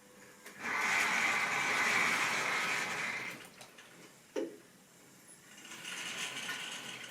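Model train running on the track: a rushing rumble of wheels and motor swells as it passes close, fades, and gives one sharp click about four seconds in before the rushing builds again as it comes round.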